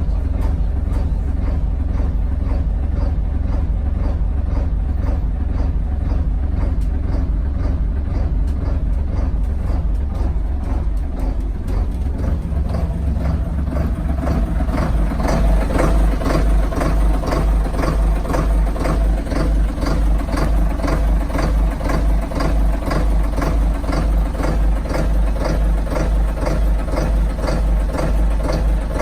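Diesel engine of a Yanmar GA43EV boat running steadily with an even, pulsing beat. About halfway through, the note gets fuller and the throb stronger, as if the revs or load rise a little.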